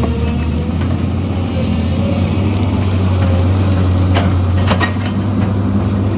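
Excavator's diesel engine running steadily under load, with a few sharp knocks or clanks about four to five seconds in, typical of the bucket striking rock.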